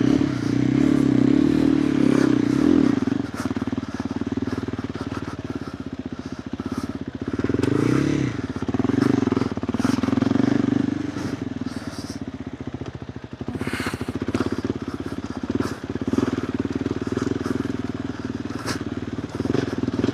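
KTM 390 Adventure R's single-cylinder engine through a Norifumi Whoops stainless slip-on exhaust, running at low revs as the bike is ridden slowly on a trail. The revs rise briefly near the start and again about eight seconds in.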